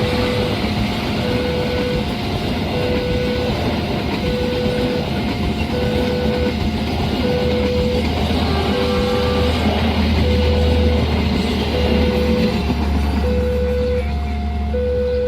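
Railway level-crossing warning alarm sounding a repeating two-note electronic chime, over the steady rumble and rail noise of a passing train; the low rumble grows heavier about halfway through.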